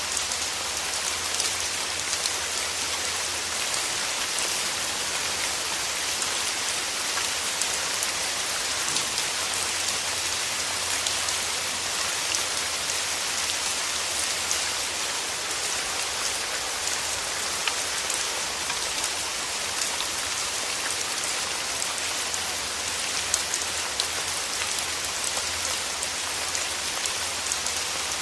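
Steady rain: an even hiss of falling drops with many fine individual drop ticks.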